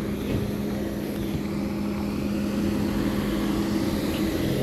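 Car engine running with a steady low hum, growing a little louder as a car drives up close.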